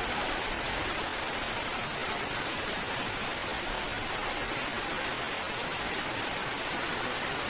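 Steady rain: an even, unbroken hiss of falling rain with no single drops standing out.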